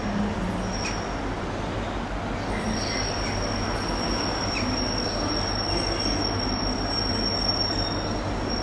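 Train running on the rails with a steady low noise, and a thin, high wheel squeal held on one steady note from about three seconds in.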